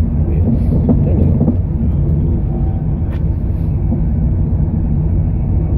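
Steady low rumble of a passenger train carriage in motion, heard from inside the cabin.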